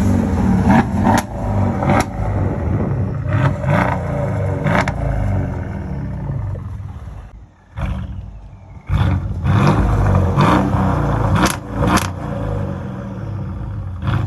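Mercedes-Benz CLS550's V8 engine and aftermarket exhaust running under throttle, with sharp cracks through the sound. It goes in two loud spells, dropping away about seven seconds in and coming back strongly near nine seconds with rising and falling pitch.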